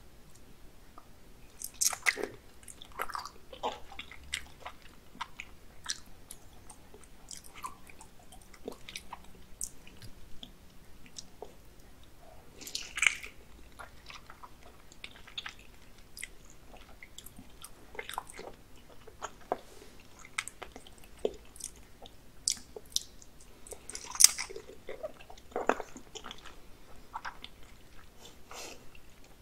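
Close-miked chewing of thick raw salmon sashimi eaten by hand: soft, wet mouth sounds and lip smacks, with a few louder smacks scattered through.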